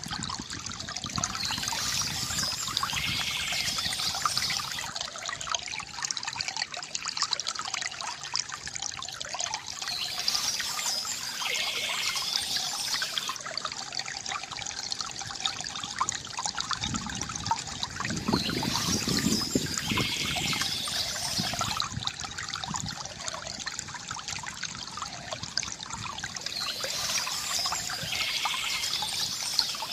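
Water trickling and gurgling steadily from a bamboo fountain. A brighter, high-pitched passage comes back about every eight or nine seconds, and there is a heavier, deeper gurgle a little past the middle.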